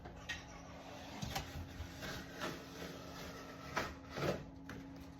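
Cardboard box and packaging of a 3D printer being handled and opened: a series of knocks, scrapes and rustles, over a steady low hum.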